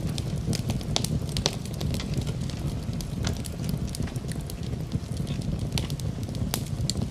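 Wood fire burning in a fireplace: a steady low rumble of flames, with frequent sharp crackles and pops at irregular intervals.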